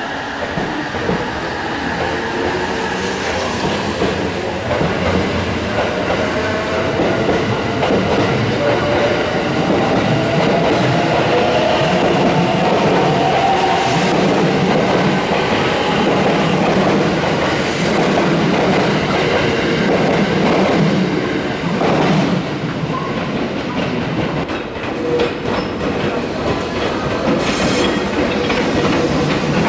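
Train running along a station platform track, its wheels clacking over rail joints, with a whine that bends up and back down in pitch.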